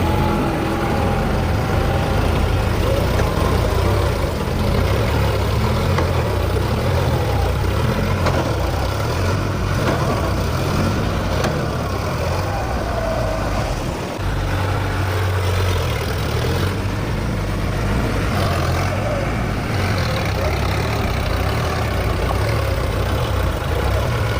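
Diesel tractor engines running steadily, with a brief dip in level about 14 seconds in.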